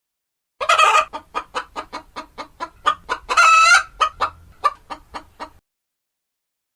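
Chicken clucking in a rapid run of short clucks, about five a second, with a loud call near the start and a longer drawn-out call midway, in the manner of a hen's cackle. It stops abruptly.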